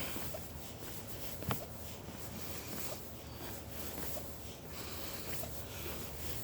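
Footsteps crunching through dry fallen leaves, with faint crackles and one sharp click about a second and a half in.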